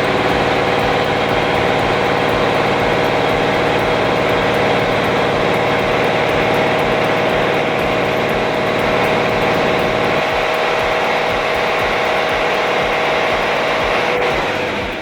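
A heavy vehicle engine running steadily under load, with a steady whine over it; it eases off near the end.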